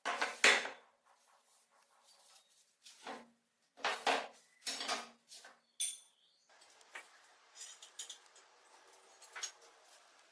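Metal parts being handled on a hard surface: a sharp clank at the start and four more knocks over the next six seconds, then lighter scraping and small rattles.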